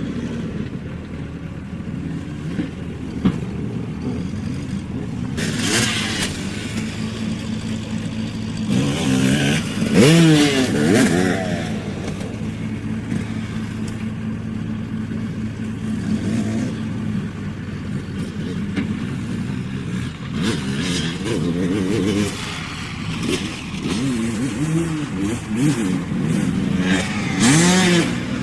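Dirt bike engines revving up and down, the pitch rising and falling again and again. The engine gets louder about ten seconds in and again near the end.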